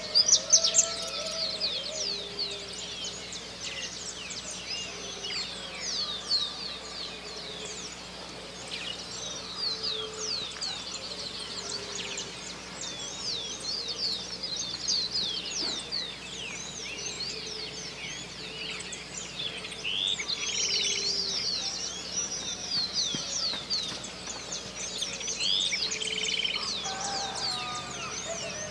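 Dawn chorus of many birds singing at once: a dense tangle of fast, high chirps and rapid trills, over short low notes that repeat about every two seconds.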